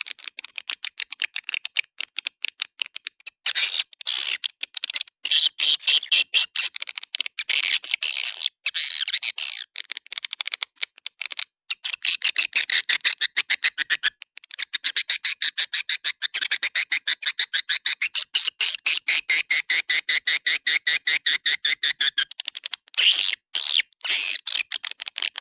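Recorded swiftlet calls used as a lure sound for swiftlet houses: a dense, rapid twittering chatter of many quick chirps a second, broken by a few short pauses.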